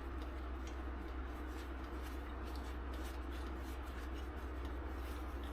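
Faint ticks and rubbing from hand tools being handled, over a steady low hum.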